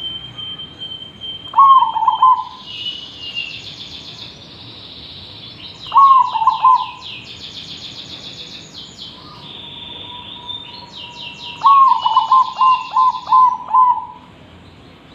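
Zebra dove (perkutut) cooing: three loud phrases of soft, rolling coos, the last a longer run of several notes near the end. Fainter high-pitched trills run underneath.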